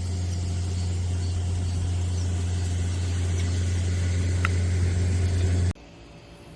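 Golf cart running with a steady low motor hum, which stops abruptly near the end. A single short high chirp sounds about four and a half seconds in.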